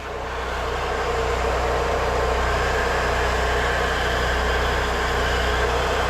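Engine-driven pressure washer running, with a steady rushing hiss of the spray that builds over the first second and then holds, over the low drone of the engine.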